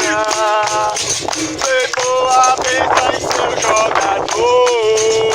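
Capoeira roda music: voices singing a capoeira song, with one long held note near the end, over rhythmic hand percussion with sharp jingling hits.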